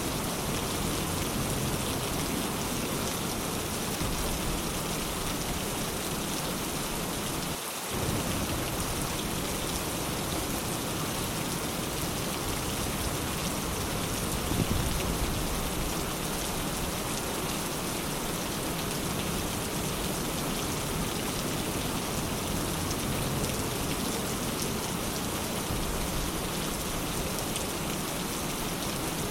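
Steady rain falling on surfaces, a continuous even hiss of raindrops. There is a brief break in the sound about eight seconds in.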